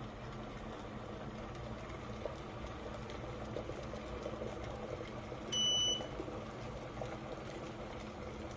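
Chefman digital electric kettle heating water, a steady bubbling hiss with small crackles. One short electronic beep sounds about halfway through.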